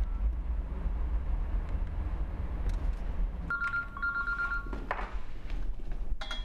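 A telephone ringing with a two-note electronic tone for about a second, starting about halfway through, followed by a brief rustle and a short high beep near the end, over a steady low rumble.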